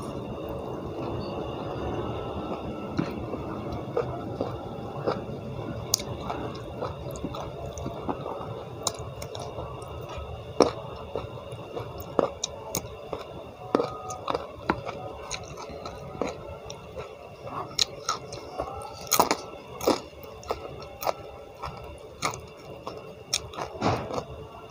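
Close-up chewing of a mouthful of rice and raw leunca (pea eggplants) eaten by hand, with irregular wet mouth clicks and smacks that grow more frequent and louder from about halfway through.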